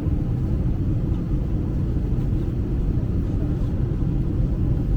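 Steady low rumble heard from inside a moving vehicle, with no clear engine whine and no sudden knocks.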